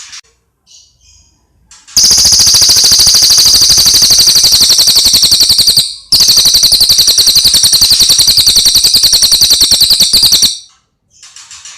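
Cililin coklat songbird singing: a few soft chirps, then a loud, very rapid, high-pitched rattling trill lasting about four seconds, a brief break, and a second trill of the same length. Softer chirps return near the end.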